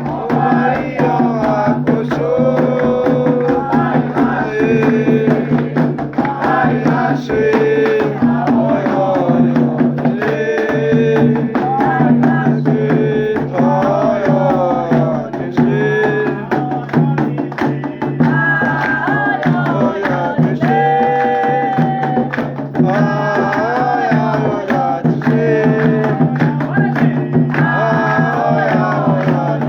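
A Candomblé cantiga: a voice singing a melodic line with held and gliding notes over steady percussion, with a constant low drone underneath.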